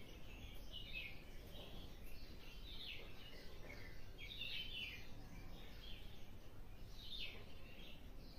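Faint bird chirps, short quick calls repeated irregularly, over a low steady background hum.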